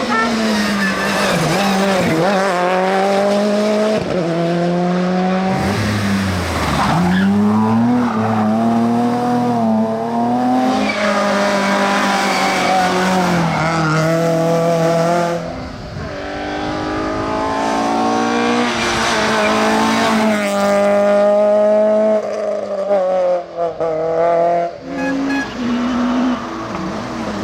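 Rally car engine revving hard, its pitch climbing and dropping again and again as it shifts through the gears, with some tyre squeal. Near the end the sound drops off sharply several times as the throttle is lifted.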